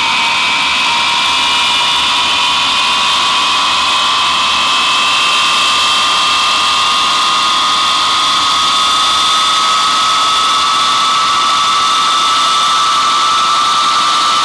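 Avro Vulcan XM655's four Rolls-Royce Olympus turbojets running, a loud steady jet whine that slowly climbs in pitch over a wide roar.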